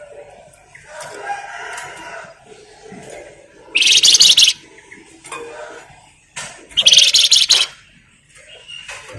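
A Flamboyan songbird giving two loud, high, fast-pulsed buzzy rattles of just under a second each, about four and seven seconds in, the 'nyerecet' call, with softer chirps between them.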